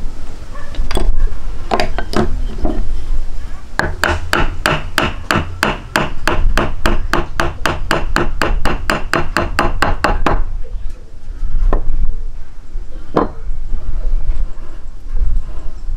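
A rapid, even run of sharp knocks, about four a second for some six seconds, with a few single knocks before and after, over a low rumble of wind on the microphone.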